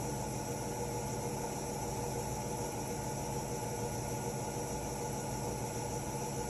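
Hotpoint-Ariston RSG 825 J washing machine running at a steady speed: a continuous whirring hum with a few steady tones and no breaks.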